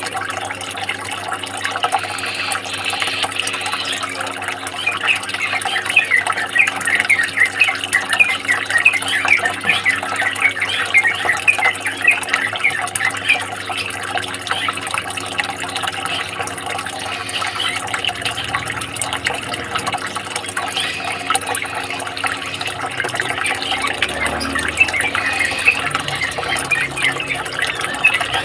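Many small songbirds chirping and twittering rapidly in a busy chorus over a steady sound of running water; the chirping thins out in the middle and picks up again near the end.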